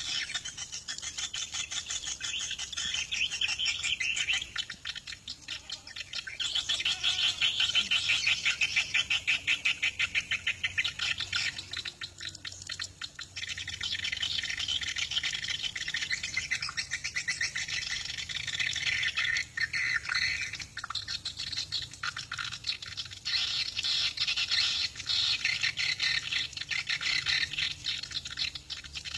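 Swiftlets twittering: a dense, rapid, high chirping that swells and fades in waves.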